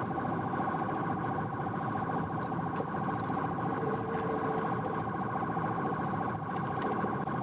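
Police car driving in a pursuit: engine and road noise under a steady, fast-pulsing siren tone.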